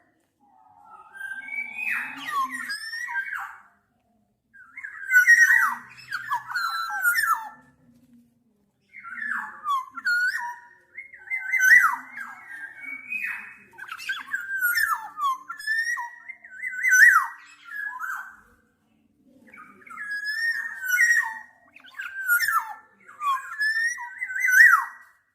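Black-naped oriole calls: repeated bouts of whistled notes mixed with harsher, nasal sweeping calls, each bout a second or two long with short pauses between.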